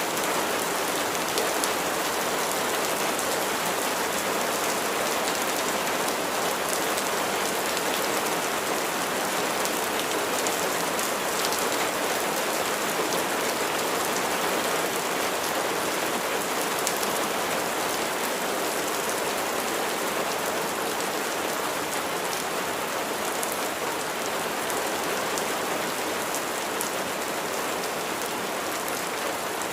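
Steady rain falling, an even hiss with faint ticks of individual drops, holding level throughout.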